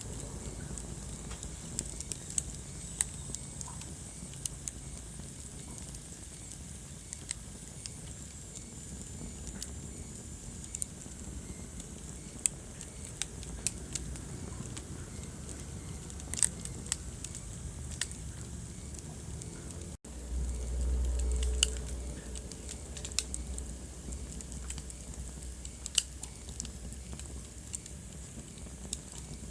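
Wood fire burning in a fireplace: a steady hiss with sharp, irregular crackles and pops. About two-thirds through, the sound drops out for an instant and is followed by a low rumble lasting a second or two.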